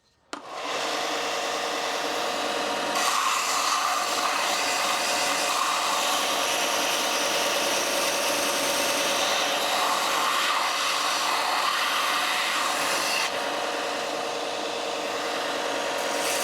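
Belt sander running with a hickory spatula paddle pressed against the moving abrasive belt, a steady rasp of wood being ground away over the hum of the machine. The grinding comes in about half a second in, grows a little louder about three seconds in and eases slightly near the end.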